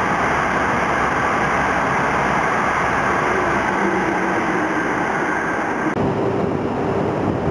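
E5 series Shinkansen train running past, a steady rushing noise of the passing cars that carries on as the train draws away. About six seconds in it cuts abruptly to a thinner hiss of wind on the microphone.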